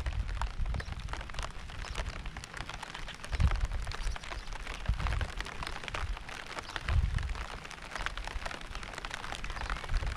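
Steady rain, many separate drops pattering on a surface, with a low rumble that swells and fades three times in the middle.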